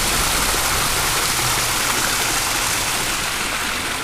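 Creek water flowing steadily, a constant rushing wash.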